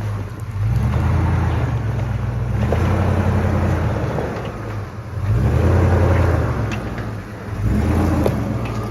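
Toyota Land Cruiser 100 Series engine pulling under load as the truck crawls through a creek bed, swelling about four times with throttle. A couple of short knocks come near the end.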